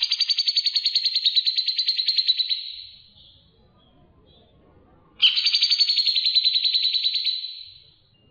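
A songbird gives two long, rapid trills, each about three seconds long and fading out at the end, the second starting about five seconds in.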